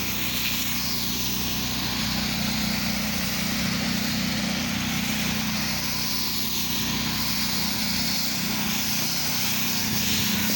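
Small gas engine of a pressure-washing rig running steadily, with the hiss of a spray nozzle putting cleaning chemical down on a house and walkway.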